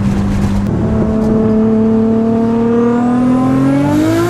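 Nissan RB25 turbocharged straight-six under hard acceleration in an S14 240SX, its revs climbing steadily through a gear from a cruise. A faint high whine rises alongside near the end.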